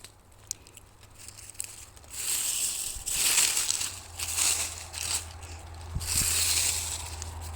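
Footsteps crunching over the forest floor, starting about two seconds in and going on in uneven steps.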